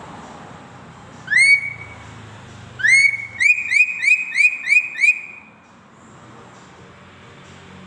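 A bird giving clear, rising whistled notes: one about a second in, then another followed by a quick run of about six alike notes, roughly three a second, before it stops.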